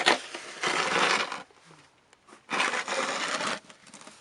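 Snow shovel scraping and pushing through deep snow in two strokes, each about a second long, with a sharp scrape at the very start.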